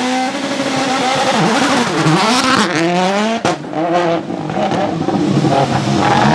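Citroën C3 WRC Plus rally car's turbocharged 1.6-litre four-cylinder engine revving up and down again and again as the car is driven hard, with a sharp crack about three and a half seconds in.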